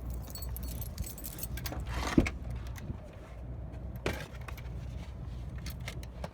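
Steady low wind rumble on the microphone during a BMX bike ride, with short rattling clicks about two and four seconds in.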